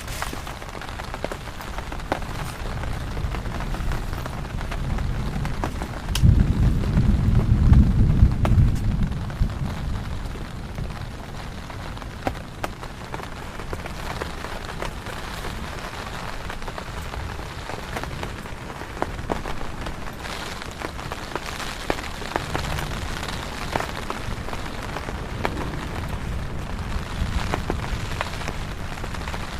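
Heavy rain falling on a surface, with many sharp drop hits. About six seconds in, a low rumble of thunder rises suddenly and dies away over about three seconds.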